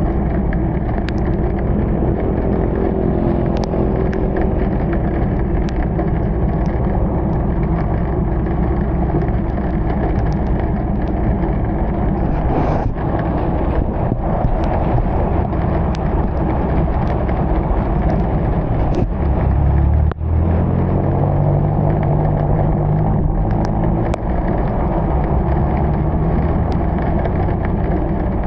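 Car driving on a rain-soaked road: a steady engine hum under the hiss of tyres and rain, with scattered short ticks. About twenty seconds in the engine note dips briefly and then rises again.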